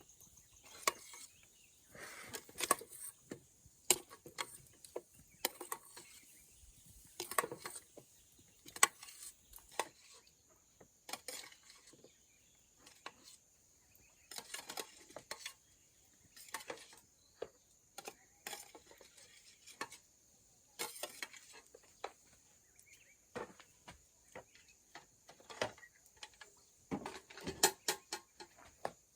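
Scattered clinks and knocks of household objects being handled, at irregular intervals, over a steady high-pitched insect drone.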